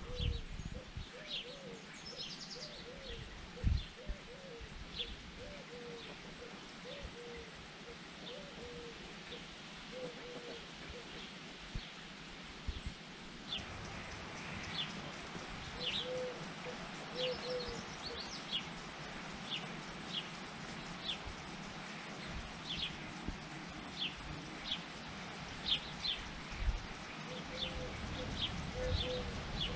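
Several birds calling in the garden: many short, high, falling chirps throughout, with runs of lower short notes. A faint, high, fast trill joins about halfway through.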